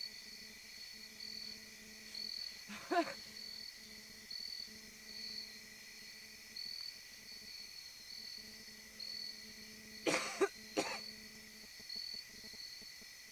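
A person coughing: once about three seconds in, then twice in quick succession near the end. Behind it, insects chirp in an even rhythm, roughly one chirp a second.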